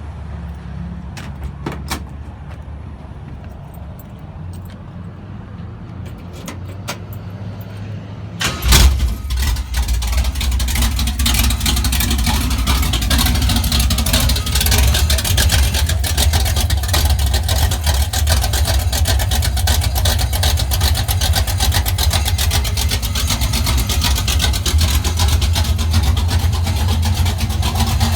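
A few light clicks, then about eight seconds in a Chevrolet small-block 350 V8 (bored .060 over, Comp Cams XE268 cam) starts with a loud burst and settles into a steady idle. The exhaust is uncorked, running straight out of open Hedman long-tube headers with no muffler.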